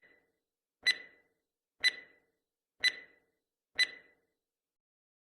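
Countdown timer sound effect ticking, about once a second: four sharp ticks, each with a short ringing tone, after a faint first one.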